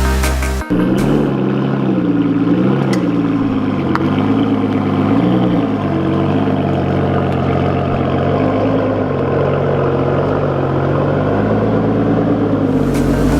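Car engine running, its pitch rising and falling several times in the first few seconds, then holding steady.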